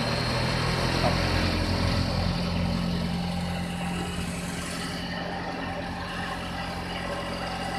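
Homemade cotton candy machine running with its spinner turned up to full: a steady motor hum as the head spins and the gas burner heats it up before sugar goes in.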